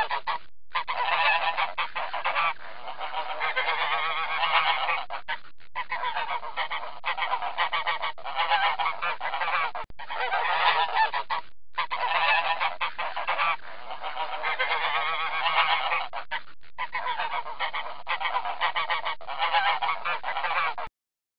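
A flock of flamingos calling: dense, overlapping goose-like honks and gabbling with a few brief pauses, cutting off sharply near the end.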